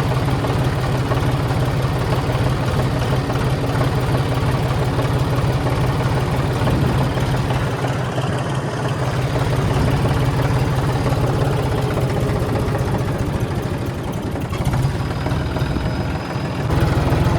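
Tractor's diesel engine running steadily with a low, even drone, easing off slightly twice, about halfway through and again near the end.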